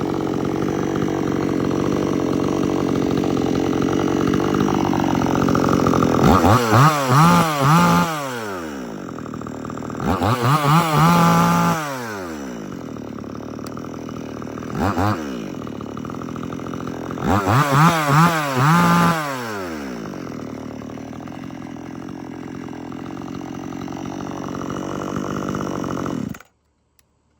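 XtremepowerUS 62cc two-stroke chainsaw running at idle, revved to high speed and back three times and blipped once. The engine sound cuts off suddenly near the end.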